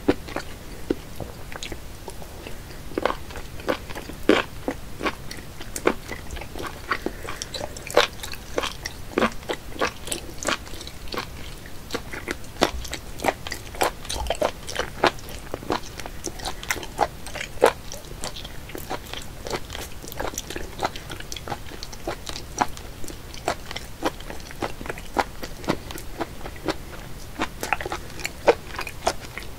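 A person chewing raw live octopus tentacles (sannakji): wet, sticky mouth sounds with many irregular clicks throughout.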